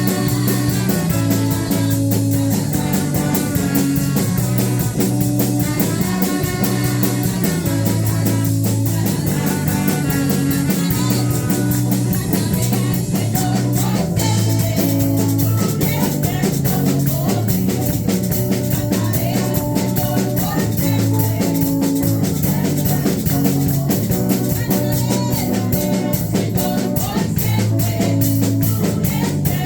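Live worship band playing a steady-beat song with electric guitar, bass and drum kit, with some singing.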